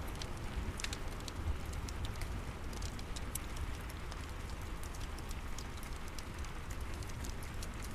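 Steady rain falling outside, with a low rumble underneath, mixed with the scattered small pops and crackles of a wood fire burning in a fireplace.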